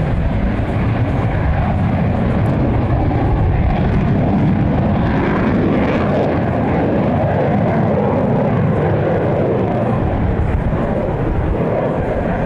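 Loud, steady aircraft engine noise, a dense roar without clear rise or fall.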